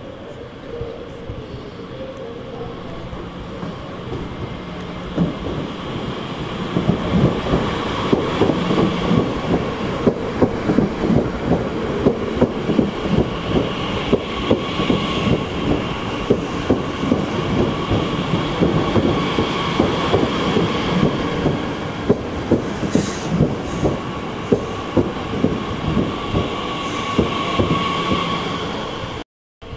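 A train rolling slowly over the tracks, its wheels clacking in a steady run of sharp knocks at rail joints and points, with thin high squealing tones above the rumble. It grows louder about five seconds in and stays close.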